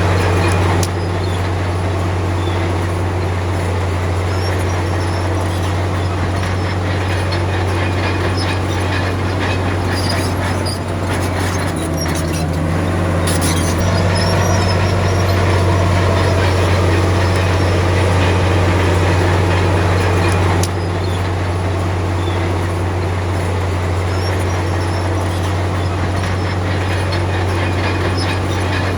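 Diesel engine of a Komatsu D53P crawler bulldozer running steadily under load, a deep continuous drone with a few metallic clanks partway through.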